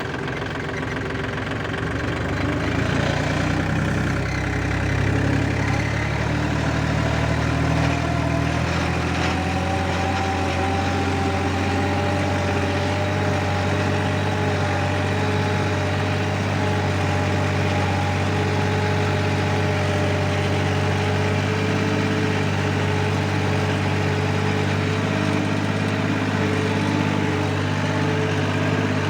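Four-wheel-drive tractor engine running steadily while working a rotavator, speeding up a little over the first few seconds and then holding an even pitch.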